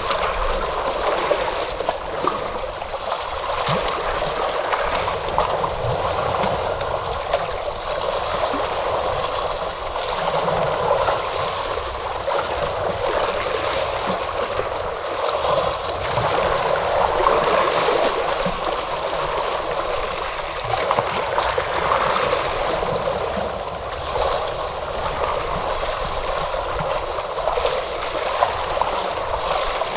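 Ocean waves washing on a shore: a continuous rush of water that swells and eases gently.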